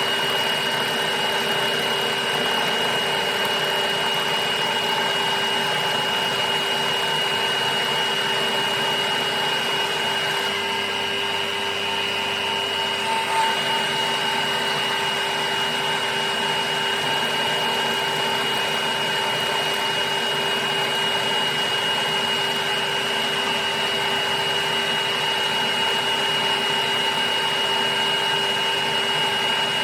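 Machine-tool motor running steadily with a constant hum and whine, changing briefly in tone about a third of the way through.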